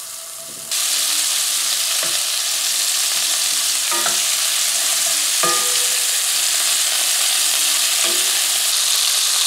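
Lamb meatballs sizzling in hot oil in an enameled cast-iron skillet, a steady loud hiss that jumps up abruptly just under a second in. A wooden spoon knocks against the pan a few times as the meatballs are turned to brown.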